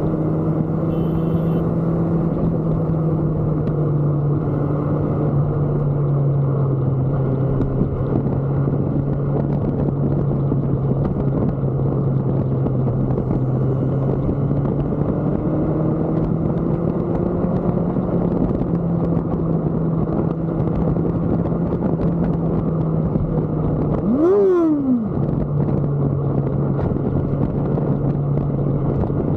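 Motorcycle engine running steadily at cruising speed over heavy wind and road noise. About 24 seconds in, a vehicle passes close by with a quick rise and fall in pitch.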